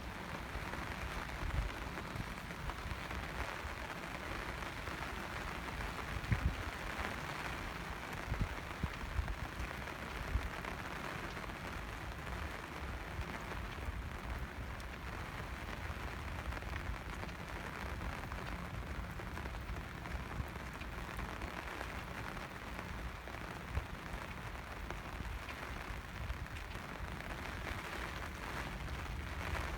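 Steady rain falling, an even hiss of drops, with occasional short low thumps.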